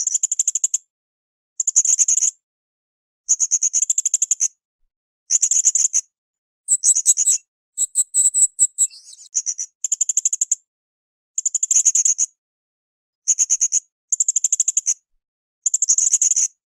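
Blue-crowned hanging parrot (srindit) calling: short, high, rapid buzzy trilled phrases, one about every two seconds, with a higher, more varied phrase near the middle.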